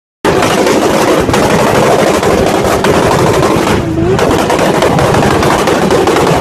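Loud car engine noise with rapid crackling, starting abruptly just after the start.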